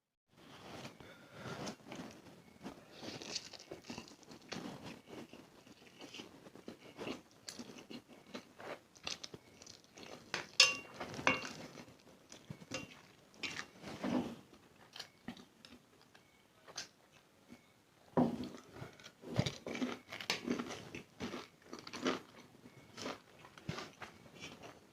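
Close-miked mukbang eating sounds: a person chewing and biting spicy instant noodles, with wet mouth smacks and clicks coming irregularly, pausing briefly a little past the middle.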